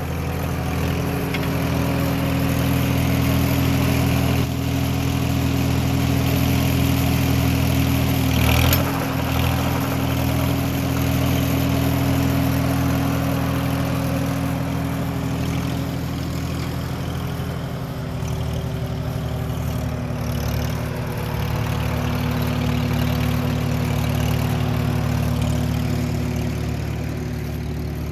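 1949 Farmall H tractor's four-cylinder engine running steadily at a low speed, with a brief knock about nine seconds in and a slight change in engine speed around eighteen seconds in.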